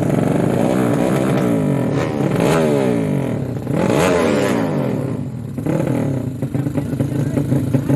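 Drag-racing motorcycles at full throttle, their engine notes sweeping in pitch as they accelerate, with a second surge about four seconds in.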